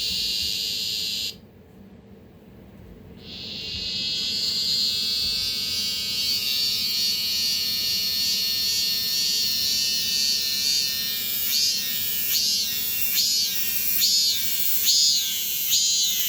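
Korean robust cicada (참매미) singing: a loud, high, shrill buzz that cuts out about a second in and builds back up about two seconds later. In the second half it breaks into the species' pulsing 'maem-maem' phrases, about three every two seconds.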